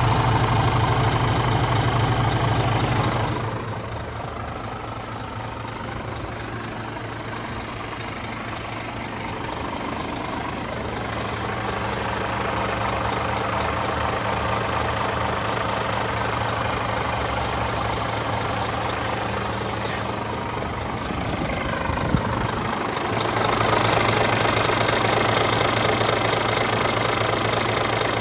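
Scania G450 truck's 13-litre six-cylinder diesel engine idling steadily; it is louder for the first few seconds and again for the last few, quieter in between.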